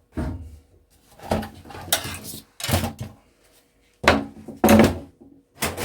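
Thin sheet-steel cover of a Sky satellite receiver clattering and scraping as it is pried off and handled: a string of separate metal knocks and rattles, about seven in all.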